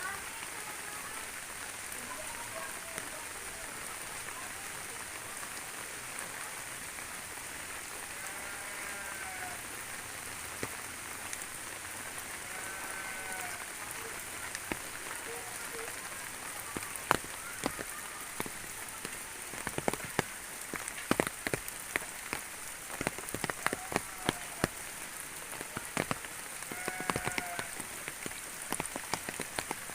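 Steady rain falling. Four times, a short call rises and falls over it, and from a little past halfway many sharp, irregular taps of heavy drops land close by.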